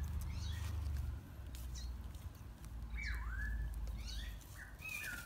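Birds calling: one swooping whistled call that dips and rises about three seconds in, followed by short whistled notes, over a low rumble that eases after about a second.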